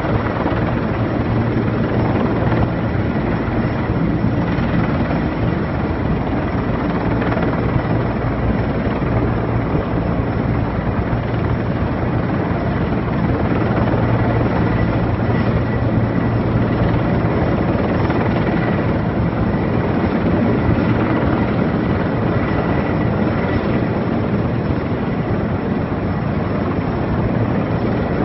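Erickson Air-Crane heavy-lift helicopter running steadily overhead: a continuous rotor and engine noise with a low hum and a thin high whine held at one pitch.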